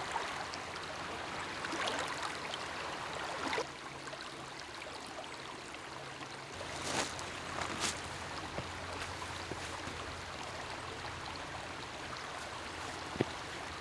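Steady lakeside water sound, lapping and trickling against the shore, with a few soft knocks or clicks scattered through it.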